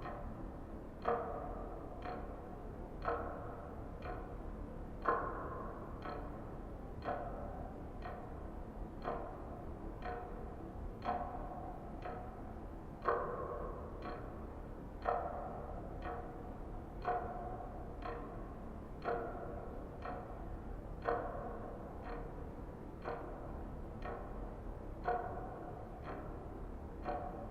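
Clock ticking steadily, one stroke a second, every other stroke louder, each with a short pitched ring.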